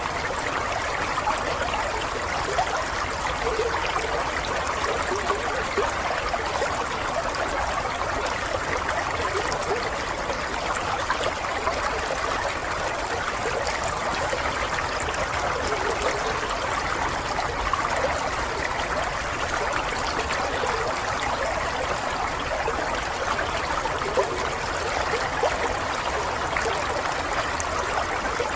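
Water flowing steadily in a small stream, an unbroken babbling and trickling with no change.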